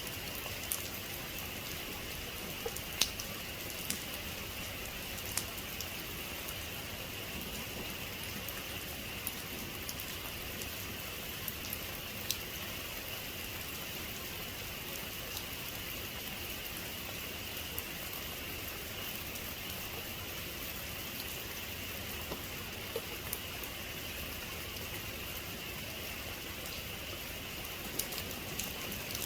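Heavy rain falling steadily, with scattered sharp ticks of single drops striking nearby.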